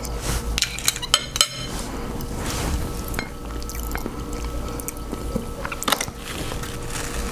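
Wet sounds of food being handled and eaten from a seafood-boil sauce: squelching and dripping with scattered small clicks and knocks, including a quick run of clicks about a second and a half in.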